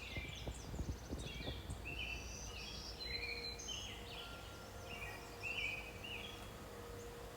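Several songbirds chirping and singing in short, overlapping calls throughout. A few dull knocks sound in the first second and a half.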